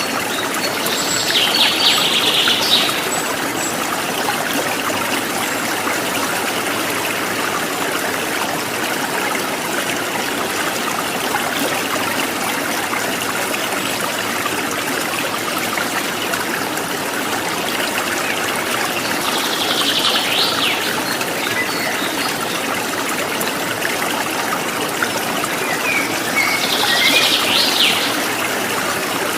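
Stream water running and trickling steadily, with a songbird singing a short phrase three times: near the start, about two-thirds through, and near the end.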